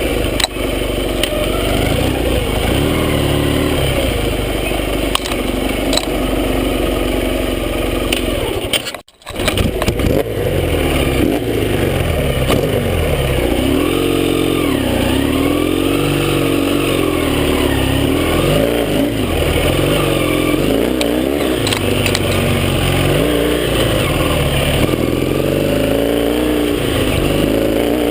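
Yamaha XS650 parallel-twin motorcycle engine running under way, its pitch rising and falling over and over as the throttle opens and closes. The sound drops out briefly about nine seconds in.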